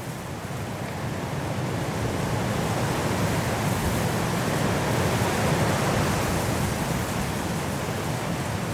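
Strong wind blowing through trees in a snowstorm, a steady rushing that swells in a gust toward the middle and eases slightly near the end.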